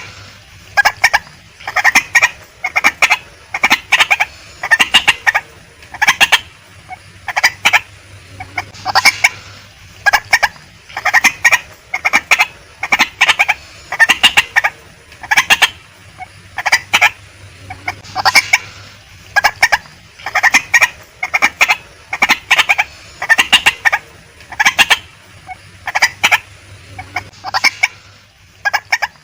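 Female white-breasted waterhen calling: short notes in quick clusters, repeating about once a second without a break.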